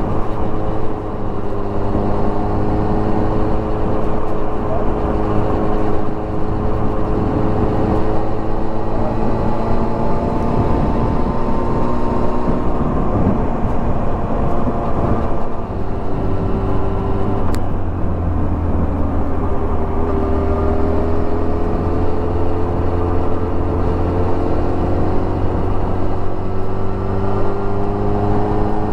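Motorcycle engine running under way, its note climbing slowly with engine speed. About halfway through the note breaks and drops, then climbs steadily again. A single brief sharp click comes just after the middle.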